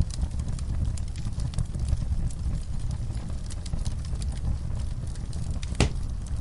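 Wood logs burning in a fireplace: a steady low rumble of flames with frequent small crackles, and one louder pop near the end.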